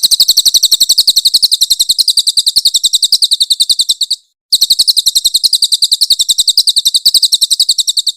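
Crested jay (cililin) giving its loud, harsh rattling call: a fast, even run of shrill notes, about nine a second. The run breaks off for a moment about four seconds in, then starts again.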